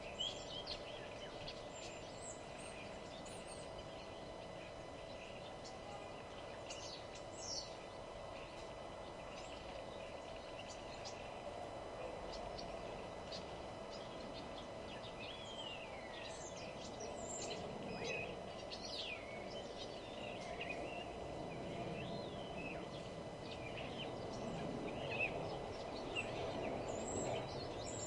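Wild songbirds singing: scattered short chirps and quick rising and falling whistles, with more of them from about two thirds of the way in, over a steady background hum and hiss that grows slightly louder near the end.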